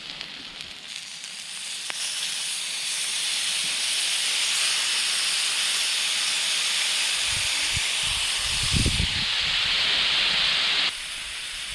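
Wild boar meat sizzling on a thick 4.5 mm steel griddle plate over a campfire: a steady hiss that builds over the first couple of seconds and cuts off abruptly near the end. A few low thumps come in about two-thirds of the way through.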